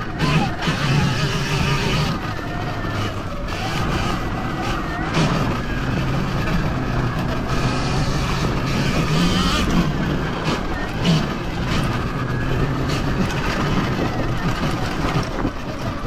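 Sur-Ron Ultra Bee electric dirt bike being ridden: the motor and drivetrain whine rises and falls with the throttle over a steady rumble of tyre and wind noise.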